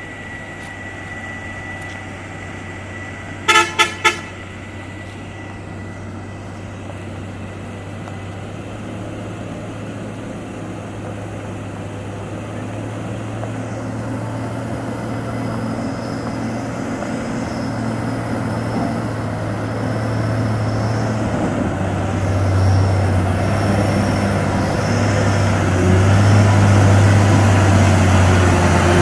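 A vehicle horn gives three short toots about three and a half seconds in. Under it a vehicle engine runs steadily, growing louder as it approaches.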